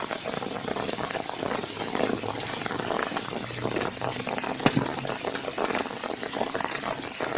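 Rain falling on and around a forest shelter, an even hiss with many close drop taps, with a steady high-pitched tone held above it.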